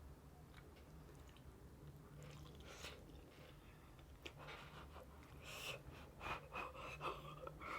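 Faint chewing of crunchy fried chicken close to the microphone, with a run of crisp crunches in the second half.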